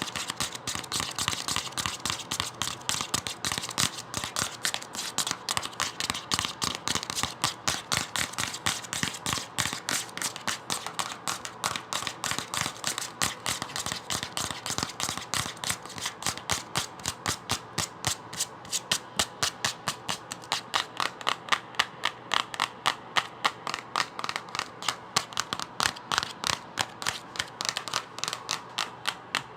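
A book being worked by hand in quick, even strokes, about three to four a second, each a short crisp click.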